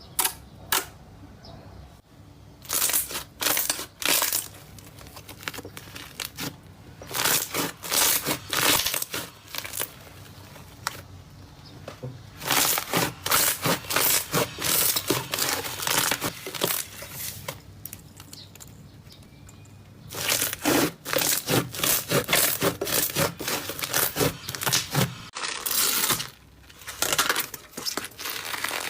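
Slime being squeezed and pressed by hand, giving bursts of dense crackling and popping a few seconds long with short quieter pauses between them.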